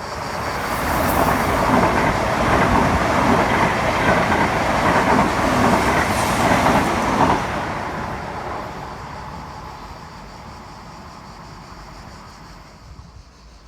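A train passing through the station at speed: a loud rushing of wheels on rails that sets in at once, holds for about seven seconds, then drops away sharply and fades as the train recedes.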